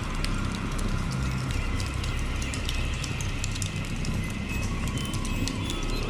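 Electronic synthesizer soundscape made to accompany a print: a steady low drone with many scattered clicks and a few faint high tones.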